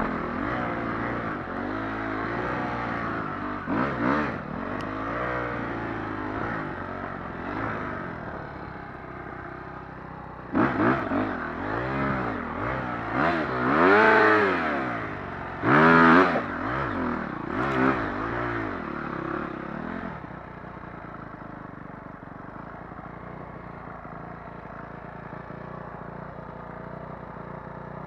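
Motocross dirt bike engines revving, pitch rising and falling again and again, loudest twice in the middle, then dropping to a quieter steady engine drone for the last several seconds.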